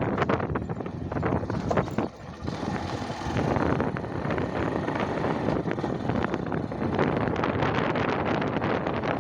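Wind buffeting the microphone on a moving bike, a dense gusty rumble with crackle, over vehicle running noise; it drops briefly about two seconds in.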